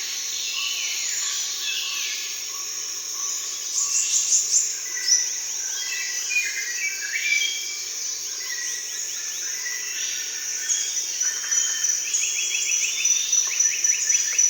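Daytime rainforest chorus: a steady high insect drone under many overlapping bird calls, with quick runs of repeated notes about four seconds in and again near the end.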